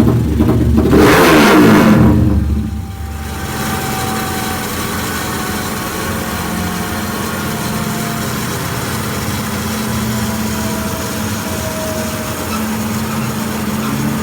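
Modified motorcycle engine with an aftermarket Pekajaman Muffler exhaust on a dyno: it revs hard with rising pitch, the throttle shuts about two seconds in, and it settles to a steady idle.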